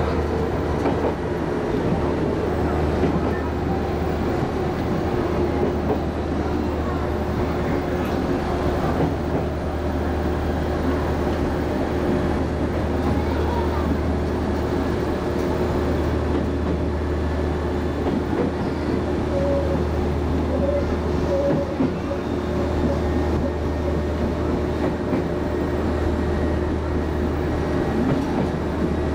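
Chichibu Railway 5000 series electric train running steadily, heard from inside the driver's cab: continuous running noise with a steady low hum.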